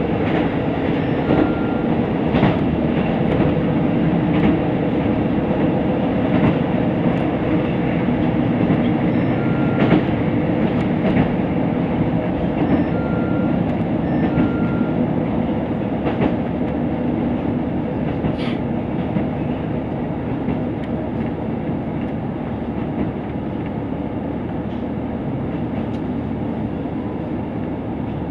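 KiHa 75 diesel railcar running at speed: a steady rumble of wheels on rails with scattered sharp rail-joint clacks, growing slightly quieter in the second half.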